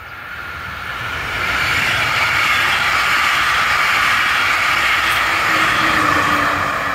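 Passenger train of coaches passing close by, wheels rolling on the rails. The rush builds over the first second and a half, holds steady, and begins to fade near the end, with a low steady hum joining about five seconds in.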